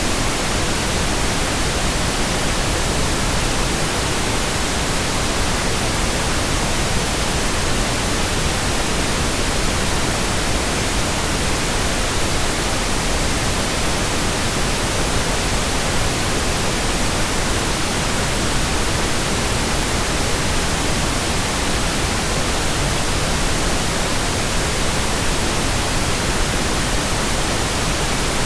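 Steady, unchanging white noise, an even hiss across the whole range with no rhythm or events, played as a sleep aid for babies.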